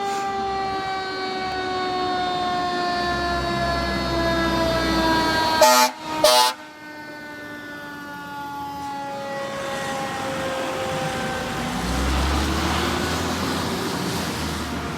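Fire engine siren wailing with its pitch falling slowly, cut across by two short air horn blasts about six seconds in, with the truck's diesel engine rumbling underneath as it passes.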